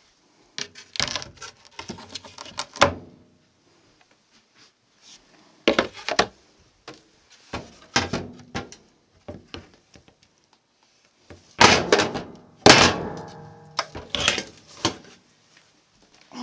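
Cupboard doors being handled and knocked about: a scatter of knocks and thuds, with two loud bangs about twelve seconds in, the second ringing briefly.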